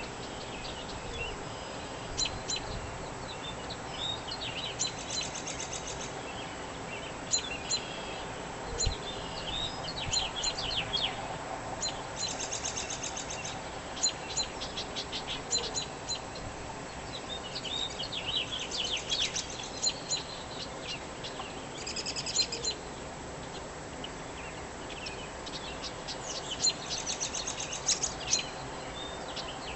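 Songbirds chirping and singing, with quick high trills every few seconds, over a steady faint background noise.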